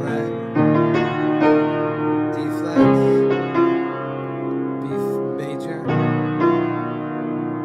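Solo piano playing a slow sequence of sustained chords, a new chord struck every second or so, with a gap of about two seconds near the middle.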